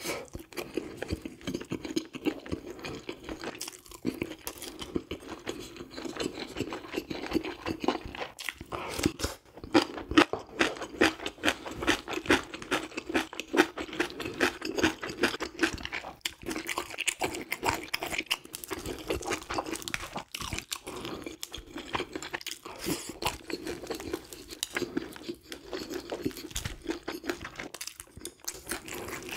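Close-miked chewing of grilled fish and rice, a continuous run of small clicks, with the fish being picked apart by chopsticks and fingers.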